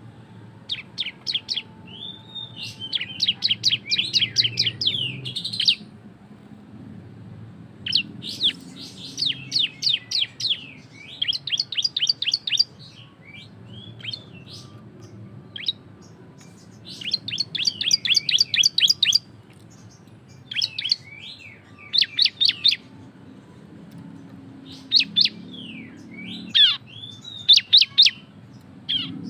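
A ciblek (bar-winged prinia) singing loud 'ngebren' phrases: rapid runs of sharp, high chirps lasting one to three seconds each, repeated with short pauses between.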